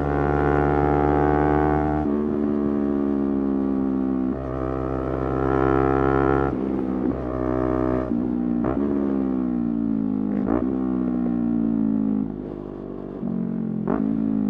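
Motorcycle engine heard on board while riding, with gear changes. In the second half the revs fall steadily as it slows, with quick throttle blips on the downshifts.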